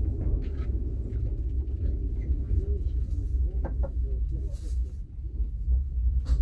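Steady low rumble of a moving passenger sleeper carriage, its wheels and running gear rolling on the rails, heard from inside the carriage, with a few faint light ticks.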